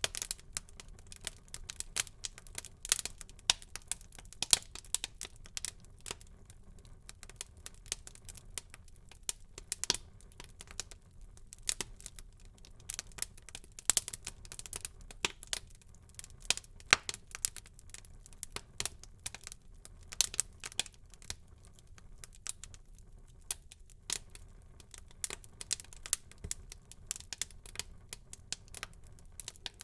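Wood fire crackling in a fireplace, with frequent irregular sharp pops and snaps over a faint low rumble of the flames.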